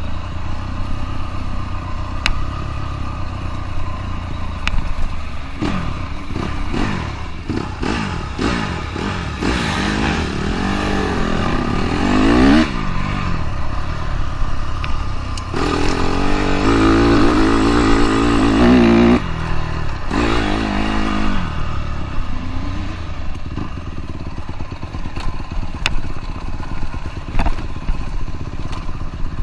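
Dirt bike engine revving up and down again and again as it is ridden, rising to its loudest, held high revs about halfway through, then easing off. Under it runs a steady low rumble.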